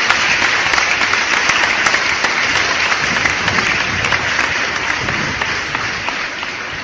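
A crowd applauding, a dense, steady clatter of many hands that eases off slightly toward the end.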